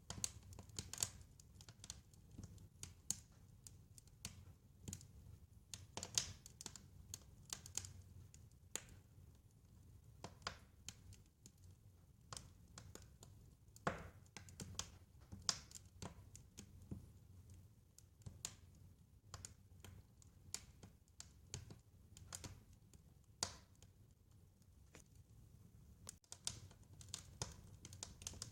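Wood fire crackling, with irregular sharp pops of uneven loudness over a low steady rumble.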